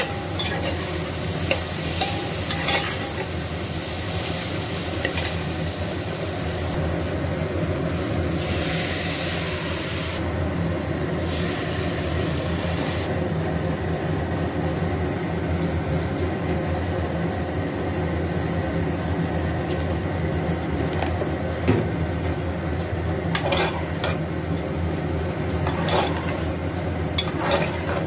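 Soya chunks sizzling in spiced oil in an aluminium pot while a steel spatula stirs and scrapes them. About 13 seconds in the sizzle drops away as rice and liquid go in, leaving spatula stirring and a few sharp scrapes against the pot near the end, over a steady low hum.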